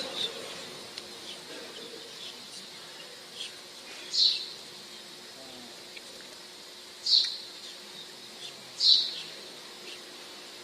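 Small birds chirping in a quiet hall: three short high chirps about four, seven and nine seconds in, over a faint steady hum.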